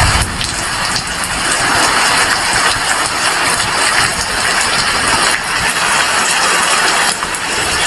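Heavy rain falling steadily, a dense, even hiss. A brief low rumble comes right at the start.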